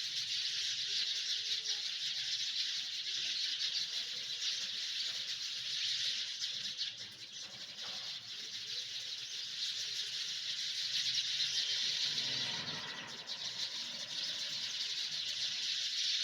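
Dense chorus of many small birds chirping at once: a steady, high, fast chatter that eases briefly twice.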